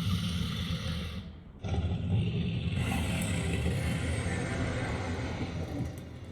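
Interactive dragon sculpture roaring: a deep rumbling roar that breaks off about a second and a half in, then a second, longer roar that fades near the end.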